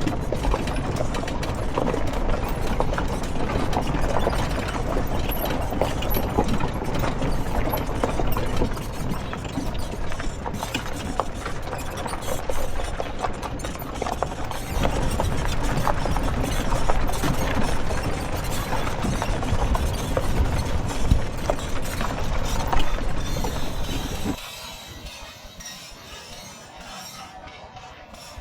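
Quad bike engine running as the bike rattles and clatters over a rough forest trail. About four seconds before the end the sound drops off abruptly to something much quieter.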